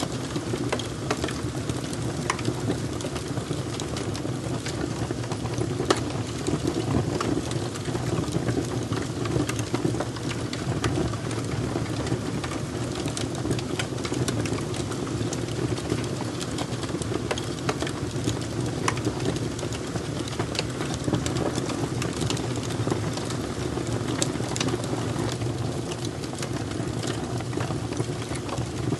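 Fire crackling, with irregular snaps and pops over a steady low rumble.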